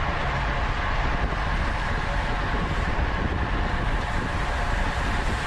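Steady wind rush and road rumble on the microphone of a camera riding along on a racing bicycle at speed.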